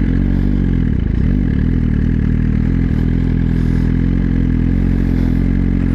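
Suzuki GSX-R1000 inline-four with a LeoVince slip-on exhaust idling steadily just after a throttle blip. The pitch wavers briefly in the first second, then holds an even idle.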